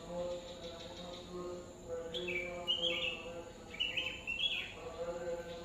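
Small birds chirping in short, quick twittering phrases, a couple of seconds in, again around four seconds and near the end. Underneath runs a steady series of lower held notes, like a distant voice drawing out long tones.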